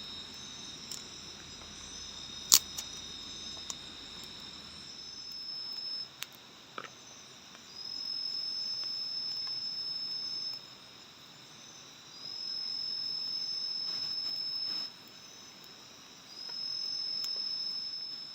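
Night insects calling with a steady high-pitched trill; a louder insect call starts up three times, each holding steady for about three seconds before stopping. A single sharp click comes about two and a half seconds in.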